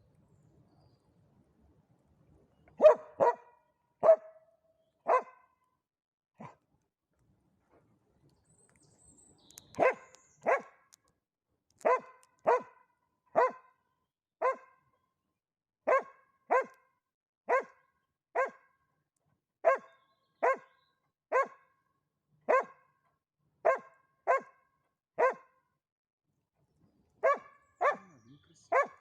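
A dog barking repeatedly: single short, sharp barks about once a second, sometimes in quick pairs, with a couple of short pauses.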